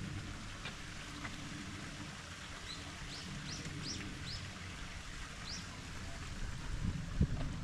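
A small bird giving about six short, rising chirps in the middle of the stretch, over a steady low outdoor rumble, with a few low bumps near the end.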